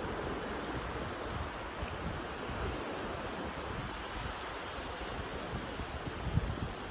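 Steady wash of sea surf on the shore, with low wind buffeting the microphone in a few gusts near the end.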